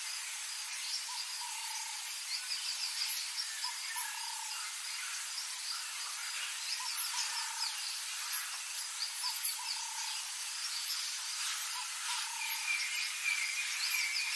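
Bush ambience of birds calling and insects chirping. Short, very high chirps come roughly once a second, with twittering calls and brief lower whistled notes over a steady hiss.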